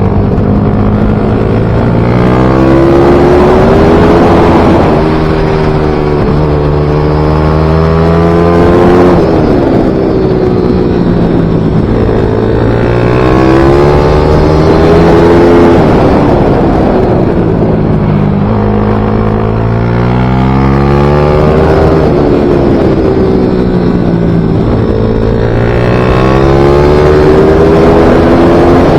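Small racing motorcycle engine of the MiniGP/pit-bike class running hard around a track. Its pitch climbs as it accelerates, then drops back, about five times over the stretch, as it shifts and slows for corners.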